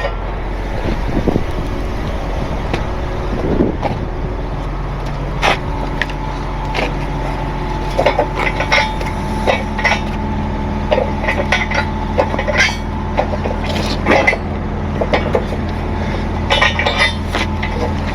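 Heavy truck engine idling steadily, with repeated sharp metallic clinks and clanks of chains and rigging gear being handled.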